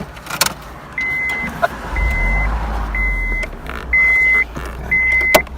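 A car's electronic warning chime beeping steadily, about once a second, each beep about half a second long, starting about a second in. A sharp click comes at the start and another near the end.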